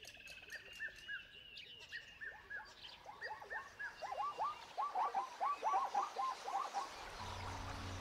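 Birds calling: a series of short, repeated down-slurred chirps, then a quicker run of lower chirping notes through the middle. A low steady drone comes in near the end.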